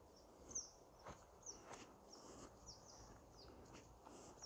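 Faint outdoor ambience with small birds chirping, many short high chirps scattered throughout, the loudest about half a second in.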